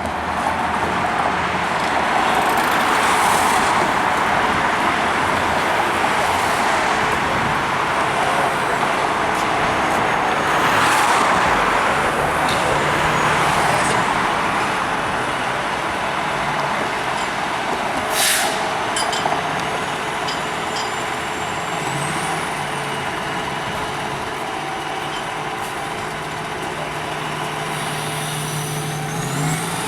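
Heavy trucks and city street traffic running steadily, with a short sharp air-brake hiss a little past halfway and a faint rising tone near the end.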